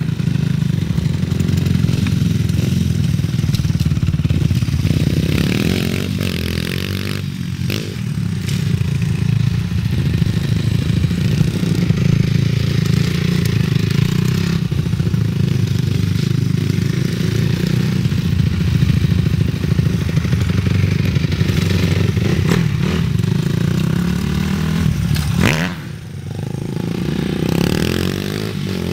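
Dirt bike engines running and revving throughout, with a brief drop and a quick rev near the end.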